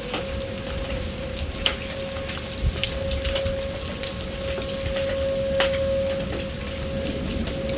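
Heavy rain falling, with drops ticking sharply on a surface close by. A tornado siren holds one steady tone behind the rain.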